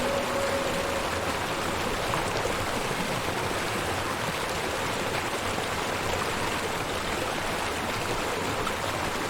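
Steady, even rush of flowing water, like a river or stream running.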